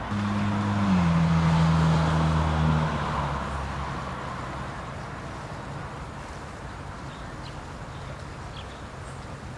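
A road vehicle passes close by: its engine note drops in pitch about a second in as it goes past, along with a rush of tyre noise, then fades away over the next few seconds.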